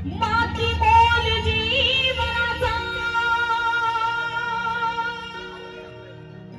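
A woman singing a long, held, ornamented note of a Marathi song, over a steady sustained accompaniment. The note fades away near the end.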